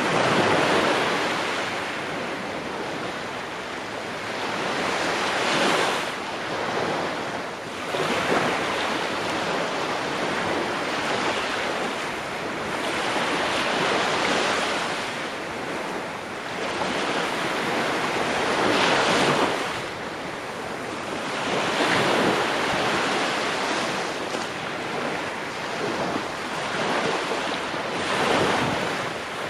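Ocean waves breaking on a shore, the surf swelling and receding every few seconds.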